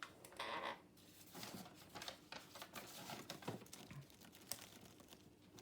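Sheets of paper rustling and sliding as they are handled and leafed through, with a brief louder rustle about half a second in, then faint scattered rustles.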